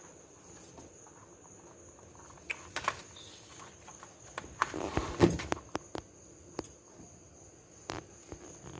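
Soft rustling and scattered light taps and clicks as a pigeon is handled and settled into a box, with a busier patch of rustling about halfway through. A faint steady high-pitched tone sits underneath.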